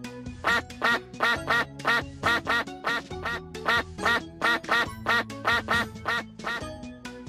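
A duck quacking in a fast run of calls, about three a second, which stops near the end. Background music plays underneath.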